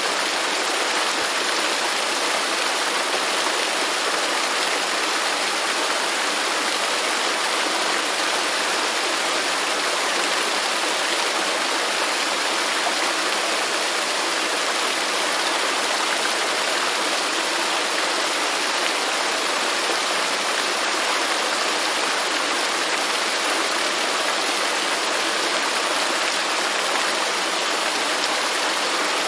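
Waterfall: a steady, unbroken rush of falling water, with an even hiss strongest in the middle and high range and little low rumble.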